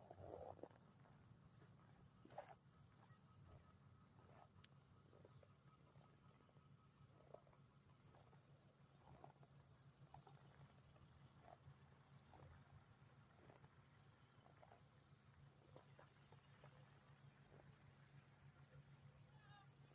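A flock of cedar waxwings giving many faint, high, thin calls, one after another, over a low steady hum.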